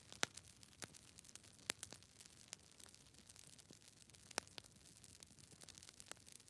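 Faint, irregular clicks and crackles over a low hiss, with a few louder clicks scattered through.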